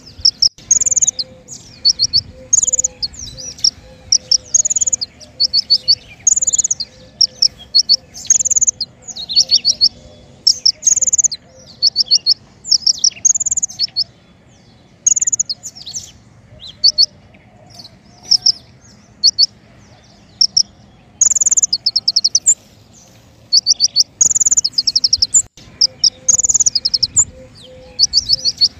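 Songbird known to Indonesian bird-keepers as 'king konin' singing loud, high, quick trilled phrases, one roughly every second with short pauses. This is the kind of song played as a masteran track to train caged birds and to lure wild ones.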